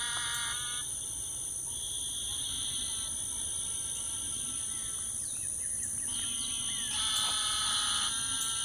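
Frogs calling in a chorus at several different pitches, in bouts of buzzy, steady-pitched trills that swell near the end. A steady high-pitched insect drone runs underneath.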